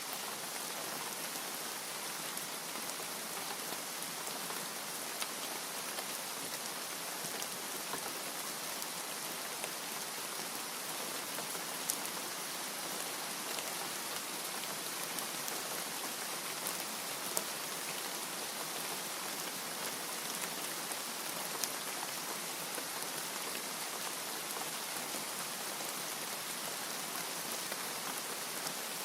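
Steady rain falling, an even hiss with scattered individual drop ticks standing out now and then.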